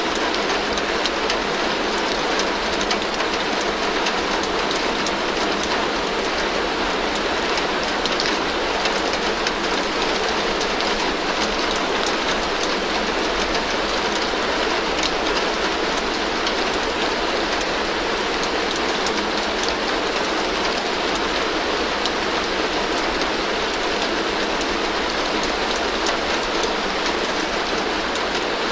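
Heavy rain falling steadily on a tin roof: a dense, even hiss peppered with the fine ticks of countless drops striking the metal.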